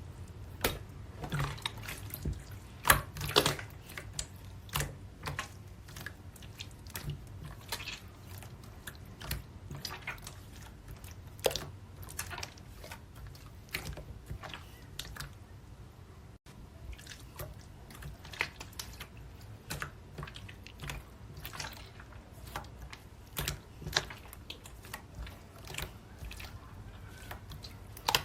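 Light pink marbled slime being squished, folded and stretched by hand, giving irregular wet clicks and pops, several louder in the first few seconds.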